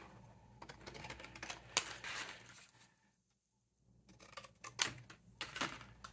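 Scattered light clicks and taps of metal cutting dies and card being handled and laid out on a craft table, with a dead-silent gap of about a second a little past the middle.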